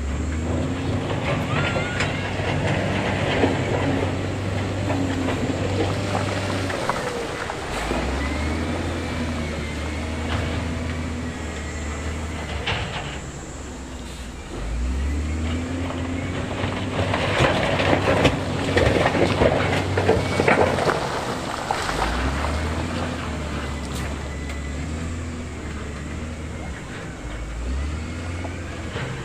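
Heavy earthmoving machine's diesel engine working under load, its note stepping up and down repeatedly. Louder stretches of scraping and clanking from rock and steel come around the middle.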